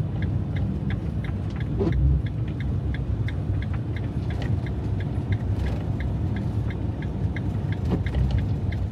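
Fiat Ducato diesel van driving on a snow-covered road: a steady low engine and road rumble, with a light regular ticking about twice a second.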